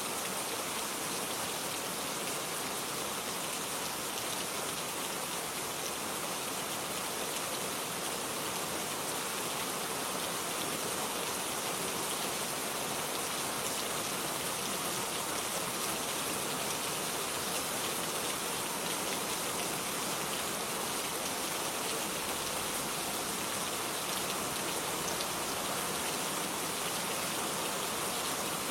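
Steady rain falling on a garden, an even hiss of many drops with no let-up.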